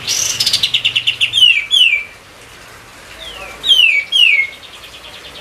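A kapas tembak songbird singing vigorously: a fast trill of clipped notes that runs into two downward-sliding whistles, then after a short pause a second phrase of three downward-sliding whistles trailing off into a faint trill.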